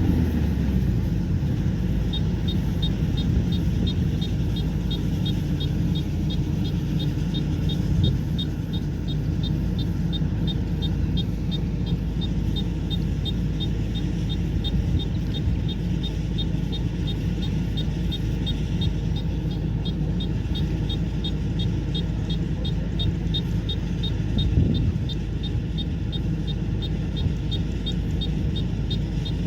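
Kubota combine harvester running steadily with a low diesel rumble. From about two seconds in, a fast, even train of high-pitched ticks comes in, about three a second.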